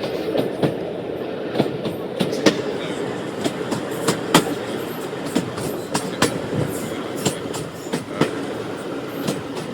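Running noise heard from inside a coach of a moving heritage diesel train: a steady rumble with frequent, irregular clicks and knocks from the wheels on the track.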